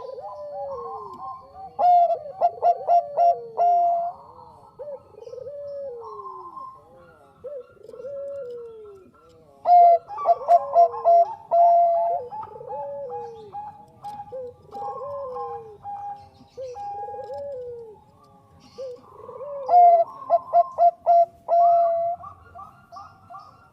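Zebra doves (Bangkok perkutut) cooing. Three loud bursts of rapid staccato coos come about eight seconds apart, with softer falling coos repeating about once a second between and beneath them.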